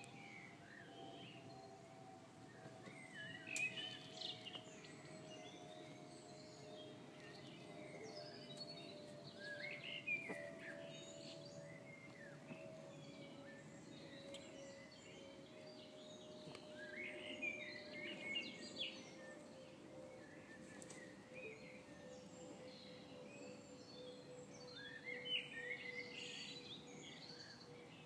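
Small garden birds chirping in short bursts every few seconds. Under the chirps runs a faint steady drone that slowly falls in pitch.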